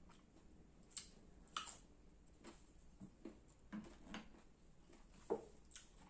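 Close-up chewing of firm, unripe Indian mango slices: a run of scattered crisp crunches and clicks, the loudest about a second and a half in and again past five seconds, with light knocks as dishes and fruit are handled.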